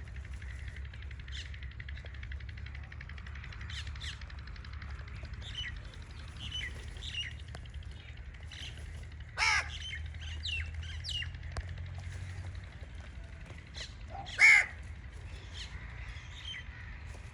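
Crows cawing, with two loud harsh caws about nine and a half and fourteen and a half seconds in, over frequent short chirps of other birds and a low steady hum.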